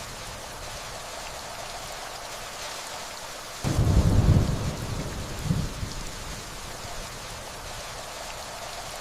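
Steady rain falling, with a rumble of thunder that starts suddenly just under four seconds in and rolls away over about two seconds.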